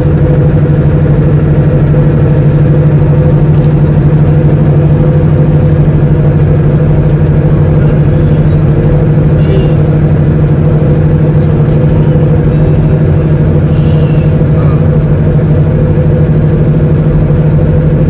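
Semi truck's diesel engine running at a steady speed, a loud, constant drone.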